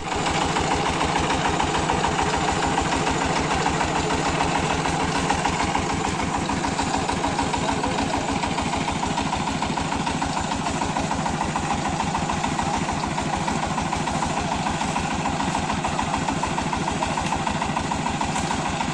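Power tiller engine running steadily with a fast, even firing beat.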